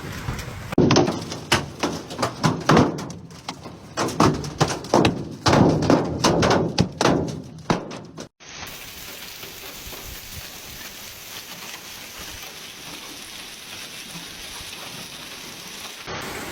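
Hailstones striking hard surfaces in rapid, irregular knocks for about eight seconds. Then, after an abrupt cut, a steady hiss of heavy rain.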